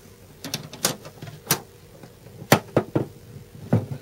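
Irregular sharp clicks and knocks of small engine parts being handled, about seven taps spread over the few seconds.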